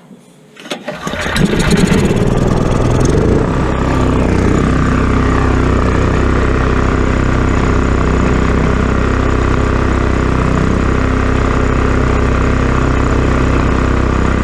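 Predator 6500 generator's engine starting about a second in and settling into steady running on its freshly replaced carburetor, which is running better but still smooths out with a little choke.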